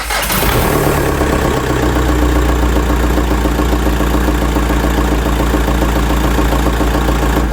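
Skoda Fabia vRS's 1.9 TDI diesel engine starting and running at a steady idle, the first start of the freshly rebuilt replacement engine.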